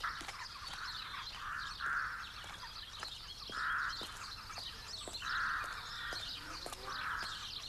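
Birds calling: about six harsh, cawing calls at uneven gaps of one to two seconds, with fainter high chirping and twittering around them.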